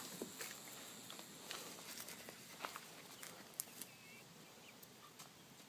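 Quiet outdoor ambience with faint, scattered ticks and rustles.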